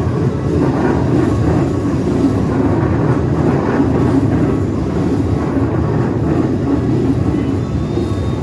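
Keikyu Electric Railway train running through a level crossing: a loud, steady rumble.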